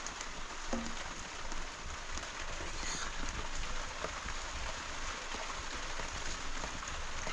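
Steady rain falling, an even hiss with a few small scattered drips and ticks.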